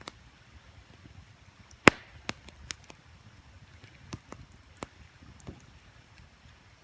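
Wood campfire crackling, with irregular sharp pops, the loudest about two seconds in, over a faint steady low rush of creek water.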